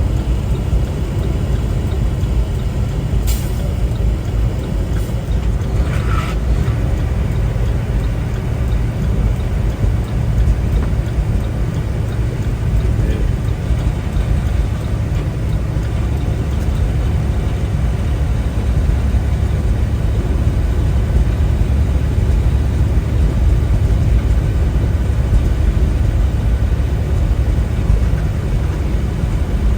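Steady low drone of a semi truck on the road, heard from inside the cab: engine and tyre noise, with a couple of brief clicks a few seconds in.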